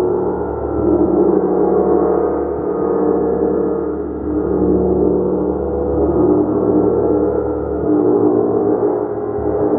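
A gong played continuously: a dense wash of many overlapping ringing tones, swelling and easing every second or two.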